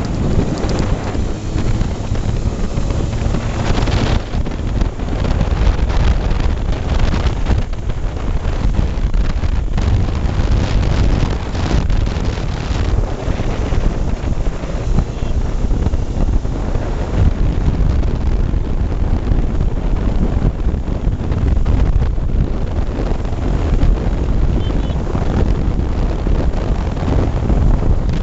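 Yamaha RD350 two-stroke parallel twin running through a 2-into-1 exhaust, heavily buffeted by wind on the microphone, which gives a steady low rumble with no clear engine note.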